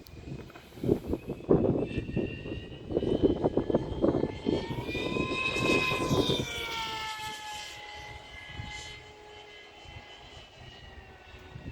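T-750 RC model airplane's motor whining in flight, its pitch rising and then falling midway as it passes. Gusts of wind buffet the microphone through the first half.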